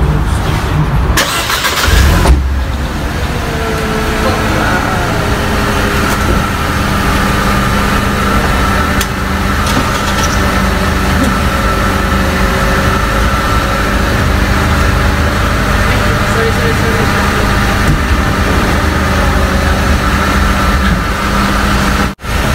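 A 2009 Mercedes SLK200's 1.8-litre four-cylinder engine starts with a short loud burst about two seconds in. It then idles steadily, with a steady high whine over the idle.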